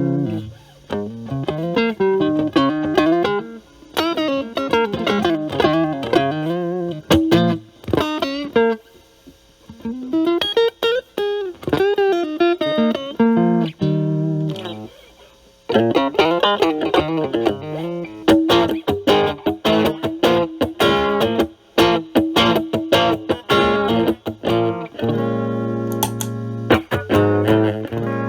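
Fender Stratocaster with three single-coil alnico pickups, played through a Metal Pedals Rawhide overdrive pedal set to zero gain into a Marshall Valvestate amp's clean channel. It plays single-note lines and chords with a couple of short pauses, and a chord is left ringing near the end.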